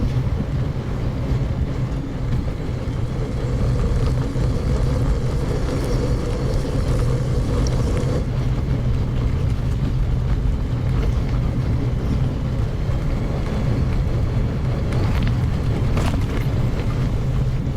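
Steady riding noise on a gravel forest road, with wind buffeting the microphone and tyres rumbling, sped up to double speed. A faint higher tone in the mix drops out about halfway through.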